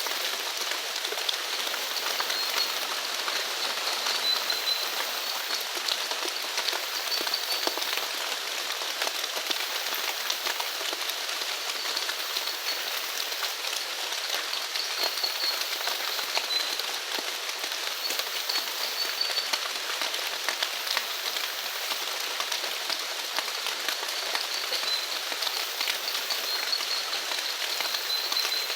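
Steady rain falling, with a dense patter of drops. A small animal's short, high chirp repeats every couple of seconds.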